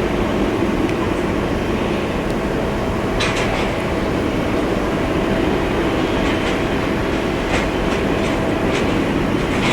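Jet airliner engines running: a steady, loud rumble with a faint high tone that fades out about four seconds in.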